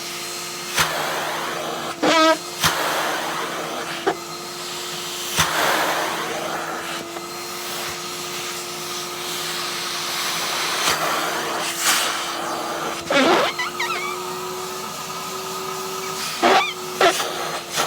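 Henry vacuum cleaner running steadily with a hum, sucking over a padded down jacket. The pitch of the airflow shifts briefly a few times, with several sharp clicks and knocks along the way.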